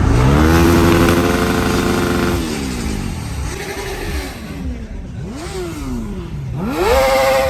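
An engine being revved. It climbs quickly, holds at high revs for about two seconds, then drops, followed by three shorter throttle blips, the last and loudest near the end.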